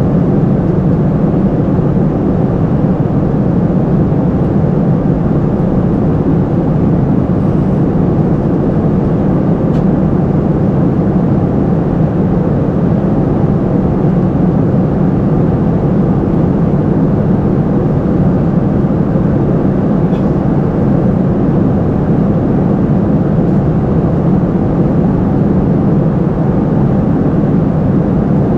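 Steady cabin noise of a Boeing 747-400 in flight: an even, low rush of airflow and engines.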